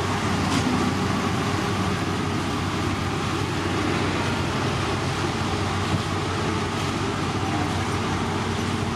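Heavy construction machinery engine running steadily, a continuous low hum with mechanical noise.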